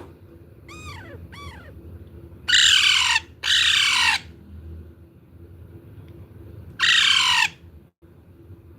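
Young pet parrot calling: two short falling chirps, then three loud harsh squawks, each about half a second long.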